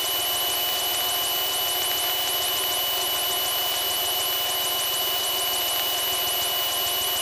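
Steady in-flight drone of a Piper Tomahawk's four-cylinder Lycoming engine and propeller in cruise, with a thin steady high whine over it.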